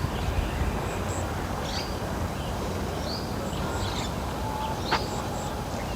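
A bird repeating a short, high, curved call about every one and a half seconds, over a steady low outdoor rumble.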